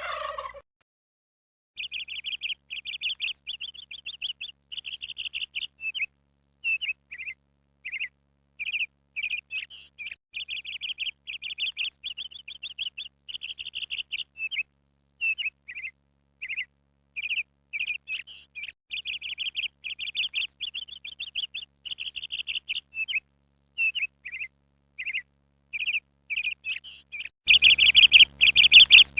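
A flock of small birds chirping and twittering in quick, dense runs of short high notes. Near the end the chirping gets louder, with a low background rumble under it.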